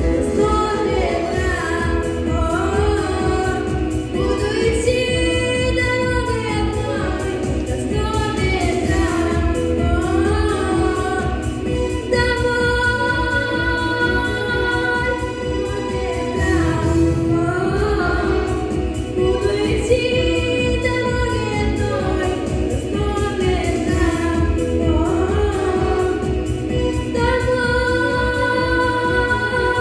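A voice singing a song over instrumental accompaniment, with gliding phrases and long held notes about twelve seconds in and again near the end.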